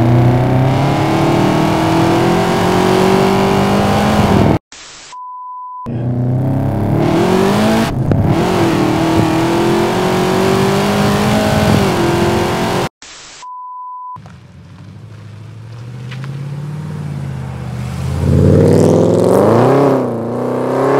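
Supercharged 6.0-litre LY6 V8 in a Holden VF Commodore SSV accelerating hard, its note climbing steeply, heard from inside the cabin in two runs. Each run cuts off into a short high beep. Near the end the car accelerates away outside, its engine rising loudly.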